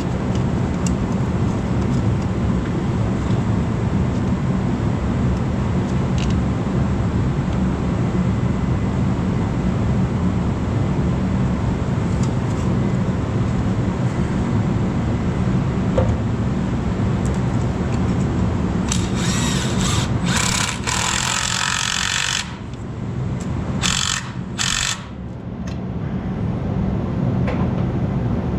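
A motor running steadily with a low, even drone, with several short bursts of loud noise about 19 to 25 seconds in.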